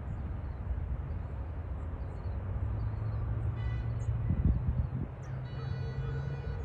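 Low, steady rumble of distant jet airliner engines mixed with wind on the microphone. Two pitched calls cut through: a short one past the middle and a longer, steady one near the end.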